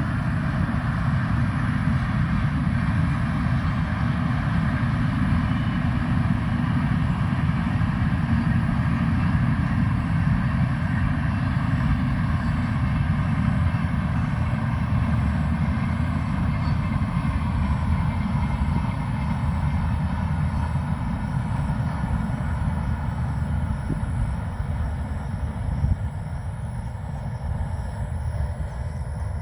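Indian Railways Archana Express passenger train running at high speed on the track, a steady rumble of wheels and coaches that drops a little near the end.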